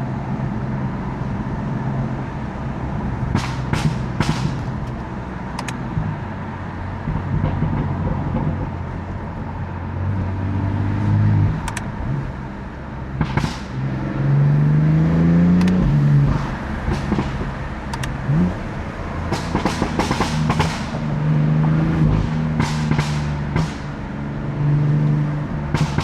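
BMW F80 M3's twin-turbo S55 inline-six running under way, its revs rising in a pull around the middle then dropping back. Sharp exhaust pops and crackles come in clusters a few seconds in and again in the second half.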